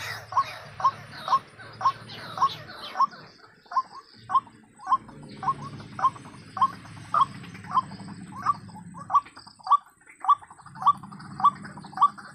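White-breasted waterhen (ruak-ruak) calling, a short note repeated steadily about twice a second.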